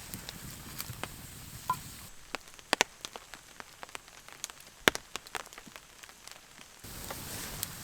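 Rain: scattered raindrops ticking irregularly on a surface over a light hiss. The hiss falls away for a few seconds in the middle while the drops go on.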